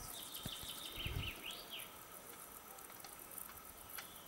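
A songbird singing a short run of quick up-and-down whistled notes during the first two seconds, faint over quiet outdoor ambience. A soft low thump comes about a second in.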